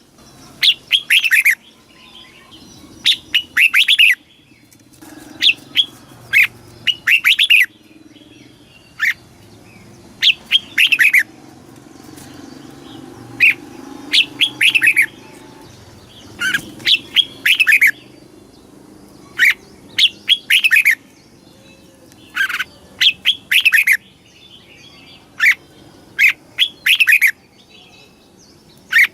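Red-whiskered bulbul singing: short phrases of a few quick, falling whistled notes, repeated every couple of seconds.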